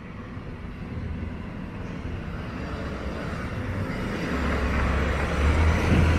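A heavy motor vehicle approaching along the street, its low engine rumble and tyre noise growing steadily louder, the rumble strongest in the last two seconds.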